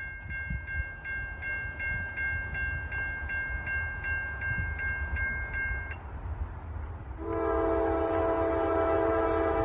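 Grade-crossing warning bell ringing at about two and a half strikes a second, stopping about six seconds in. A little after seven seconds a Norfolk Southern locomotive's air horn sounds a long steady chord, the loudest sound, over a low rumble.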